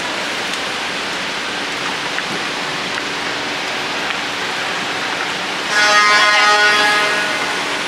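Steady city street traffic noise, with a vehicle horn sounding once for about a second and a half near the end.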